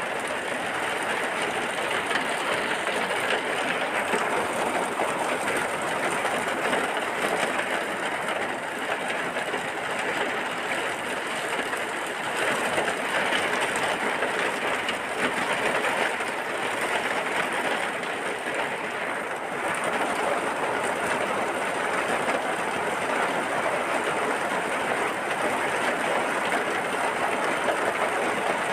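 Rain falling steadily: an even, dense hiss with no breaks or changes in level.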